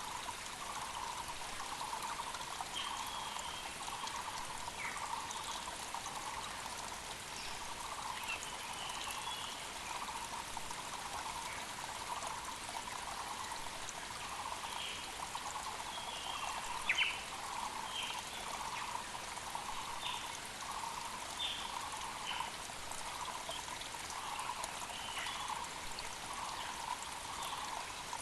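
Mountain creek flowing steadily. Over it, barbets keep up a continuous run of repeated low notes and small birds give short high chirps throughout.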